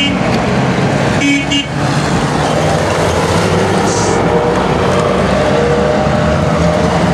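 Trabant two-stroke twin-cylinder engines running as a line of the cars passes by. A short horn toot about a second and a half in.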